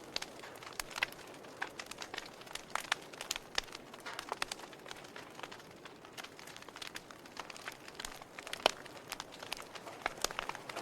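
Campfire crackling: burning wood giving irregular sharp pops and snaps over a soft steady hiss, with one louder pop about two thirds of the way through.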